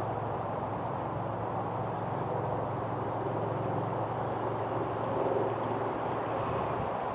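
Steady, distant vehicle rumble with a low hum.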